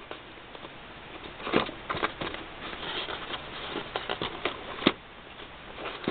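Plastic packaging crinkling and clicking in irregular bursts as a micro helicopter is worked out of its box, with two sharper clicks, about a second and a half in and near five seconds in.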